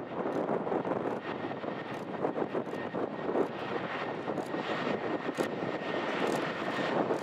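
Jet engines of a Boeing 737-800 running at a distance: a steady roar with a faint high whine over it.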